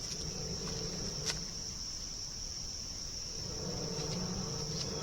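Insects trilling steadily in a high, even tone, over a faint low hum, with a few light clicks, one about a second in.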